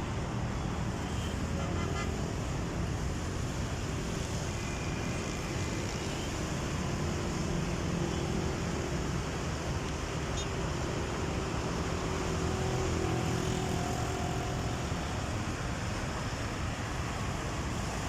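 Steady road traffic noise: passing cars and engines on a highway.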